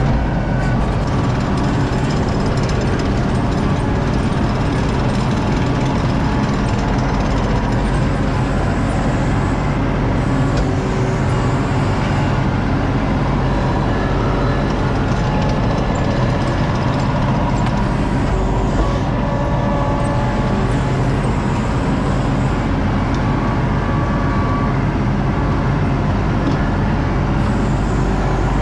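A heavy vehicle's engine running steadily at an even speed, with no change in load.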